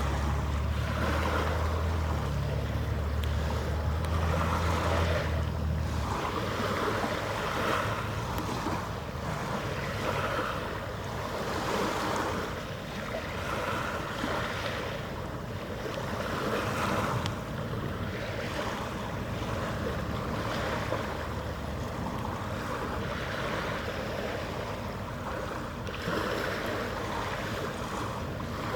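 A cruise ship's deep horn blast is already sounding, holds for several seconds with small steps in pitch, and cuts off about six seconds in. After it comes steady wind and water noise that swells and fades every second or two, with a faint low rumble.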